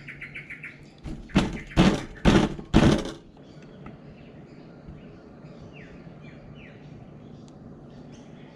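Four loud knocks about two a second, each brief, on the wooden boxes of a vertical native bee hive that are stuck together and being worked apart. A bird's rapid chirping trill is heard before them and faint chirps after.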